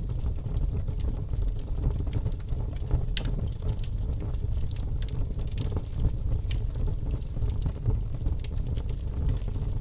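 Wood fire crackling and popping in a fireplace, with irregular sharp snaps, over a steady low rumble of snowstorm wind.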